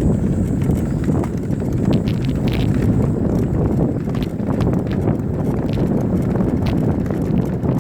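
Mountain bike riding down a rough dirt trail: a steady low noise of tyres on the ground, broken by frequent irregular clicks and knocks as the chain and frame rattle over bumps.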